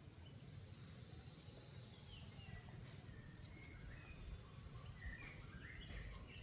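Faint outdoor ambience: a steady low rumble with scattered short, quick chirping calls that glide in pitch, more of them near the end.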